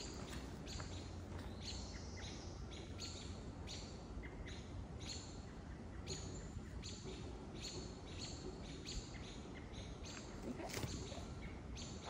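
A small bird's high-pitched chirps, repeated about twice a second, over a steady low background rumble.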